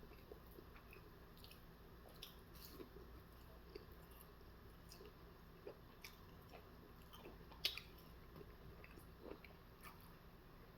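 Faint close-up chewing of food, with soft wet mouth clicks scattered throughout and one sharper click about three-quarters of the way through.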